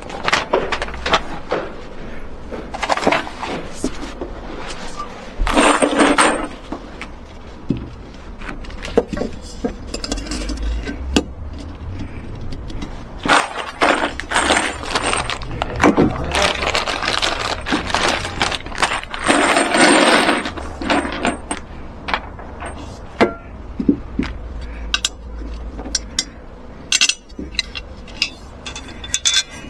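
Repeated clinks and knocks of small metal hardware and tools being handled, with two longer scraping passages about six seconds in and again near twenty seconds.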